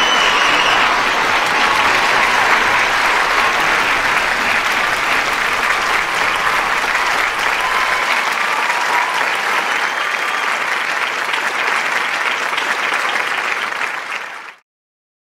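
Large audience applauding, with a few cheers in the first second, slowly fading and then cutting off abruptly near the end.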